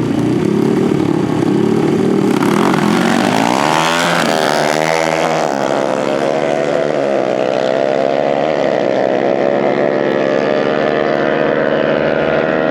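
Dirt bike engines revving hard: the pitch climbs sharply about three to four seconds in as the bikes accelerate, then holds at high revs with several overlapping engine tones.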